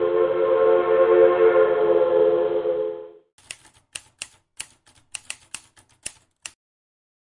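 A chord of several whistle tones sounding steadily and fading out about three seconds in, then a run of about a dozen typewriter key strikes, irregularly spaced, before the sound cuts to silence.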